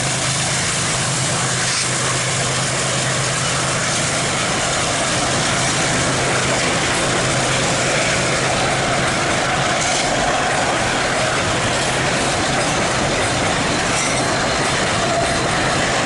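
A freight train's wagons rolling steadily along the rails. A low diesel-locomotive hum fades over the first few seconds, and a faint wheel squeal comes in during the second half.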